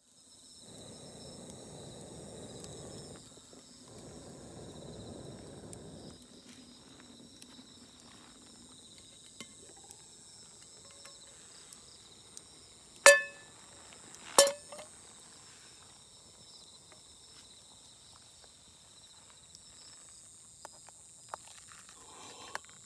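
Steady high-pitched trilling of insects, with a rustling noise in the first six seconds. Halfway through come two sharp, ringing metal clinks about a second and a half apart.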